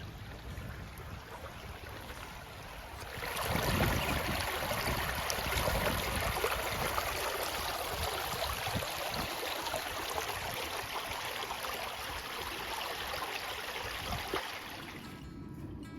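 Running water: a dense rushing, splashing noise that starts suddenly about three seconds in and stops a second before the end.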